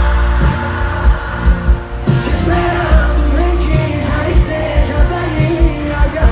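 Live pop music from a concert: a band with heavy bass and regular drum hits, with singing over it.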